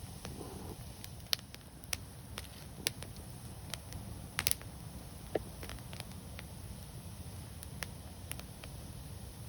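Wood fire crackling: sharp, irregular pops and snaps over a steady low rumble of burning, with the loudest pair of snaps about halfway through.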